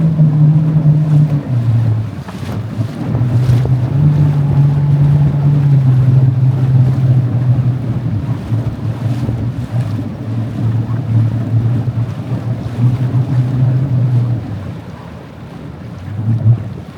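A motor running, its pitch stepping up and down between a higher and a lower speed every few seconds, then dropping quieter for a moment near the end before picking up again.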